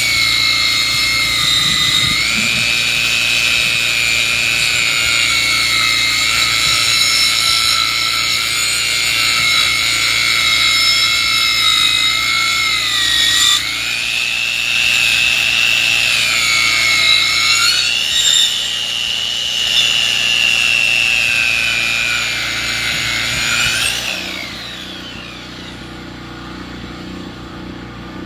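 Powered sawmill saw cutting lengthwise through a log, a loud steady whine that sags in pitch under load and recovers several times. About 24 s in the cut ends and the whine stops, leaving the engine running quietly at idle.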